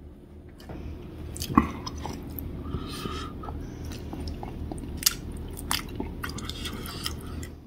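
A man chewing and biting into a hand-held roll of flatbread wrapped around lamb curry, close to the microphone, with a few sharp clicks among the chewing.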